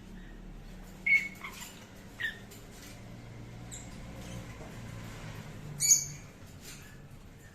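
Grey parrot chicks squeaking in short, sharp calls as they beg for food, the loudest squeak coming near the end, over a low steady hum.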